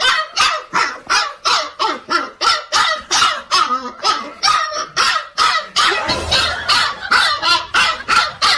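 A dog barking over and over in quick, even succession, about three or four sharp barks a second.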